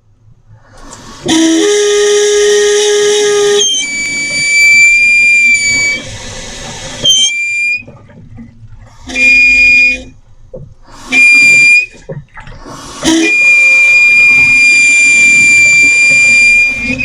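Valtec membrane-type water pressure reducer on the hot-water line whistling and humming as water flows: a shrill steady whistle over a lower hum, cutting in and out about five times as the flow starts and stops. The whistle is the reducer's fault.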